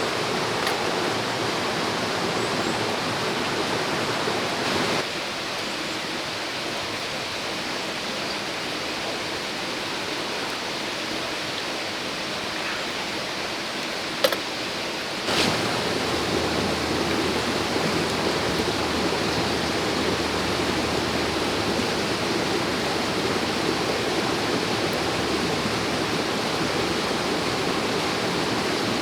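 Stream water flowing steadily, an even rushing sound. It drops slightly in level about five seconds in and comes back up just past halfway, with a single sharp click shortly before that.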